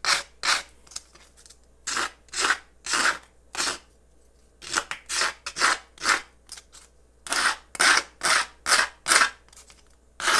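Short, scratchy strokes of a hand tool on the speaker, repeated in runs of three to six at about two a second, over a steady low hum.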